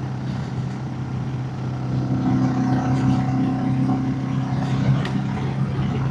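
Royal Enfield motorcycle engine running at a steady speed while climbing a steep hill, its note holding an even pitch.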